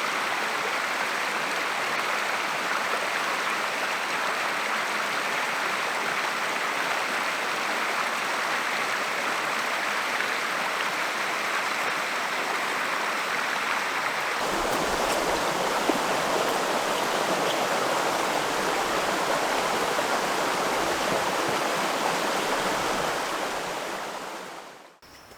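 Steady rush of flowing river water. It turns fuller and deeper about halfway through, then fades out near the end.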